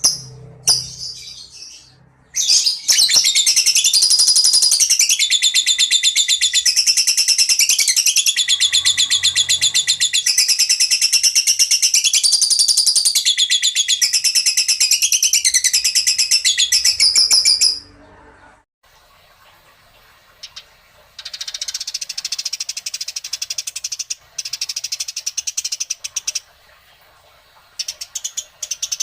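A songbird's rapid, high-pitched trilling chatter, unbroken for about fifteen seconds with shifting pitch. It stops abruptly, and after a short pause a quieter bout of the same fast trill follows, with a few short bursts near the end.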